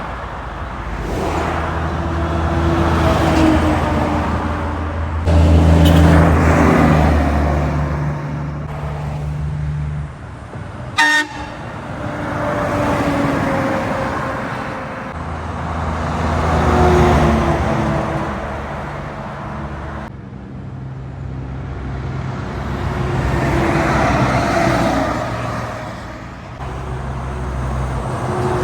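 Heavy trucks passing one after another on a highway. Diesel engine drone and tyre rush swell and fade several times, with a short, sharp blast about eleven seconds in.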